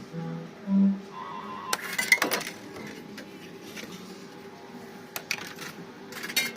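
Fruit machine sounds: short electronic tones in the first second, then a cluster of sharp clicks and metallic clinks about two seconds in, with a few more clicks later over a steady arcade hum.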